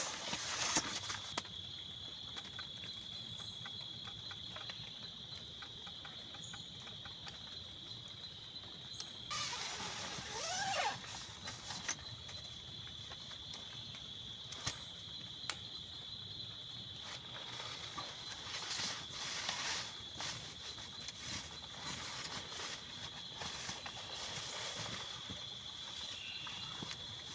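A steady high-pitched insect drone, with scattered small knocks and rustles and a louder rustling burst about ten seconds in.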